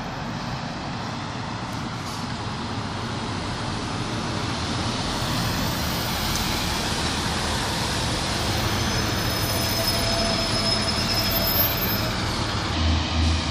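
Northern diesel multiple unit pulling into the platform, its rumble growing louder as it comes in and its brakes or wheels squealing high as it slows. Near the end a low, regular throb of its diesel engine sets in as it comes to a stand.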